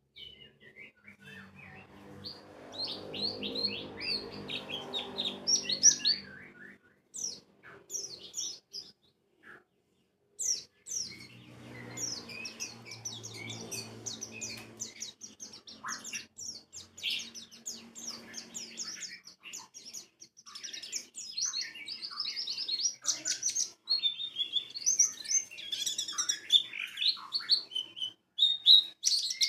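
White-eyes (pleci) singing a fast, high twittering song of rapid chirps, with a short break about nine seconds in. A low hum runs beneath the song for a few seconds twice.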